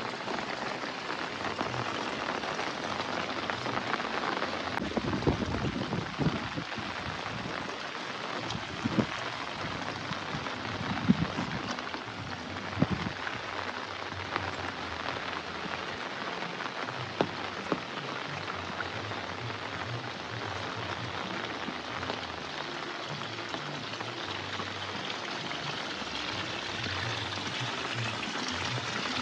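Heavy rain falling steadily, a dense even hiss, with a few louder thuds in the first half.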